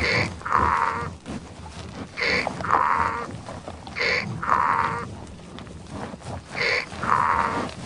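Donkey braying: four hee-haws about two seconds apart, each a short higher 'hee' followed by a longer, louder 'haw'.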